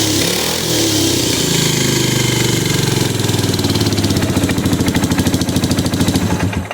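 Supercharged Polaris engine settling from a rev in the first second or so, then idling with an uneven, pulsing beat that grows choppier toward the end.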